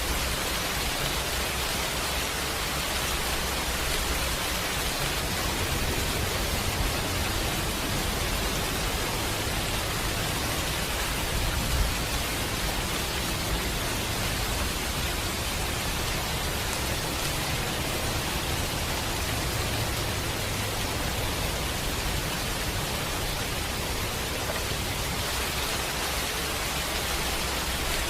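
Steady rain, an even hiss of falling drops with a low rumble underneath, and one short thump a little under halfway through.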